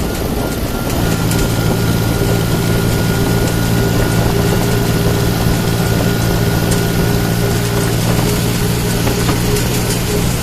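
John Deere tractor's diesel engine running steadily under load while hauling a fully loaded trolley, with a thin steady whine over it that stops near the end.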